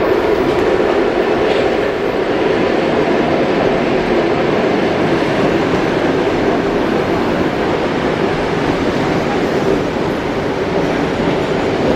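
ED4M electric multiple unit pulling into the station: a steady, loud rumble of its wheels on the rails and its running gear.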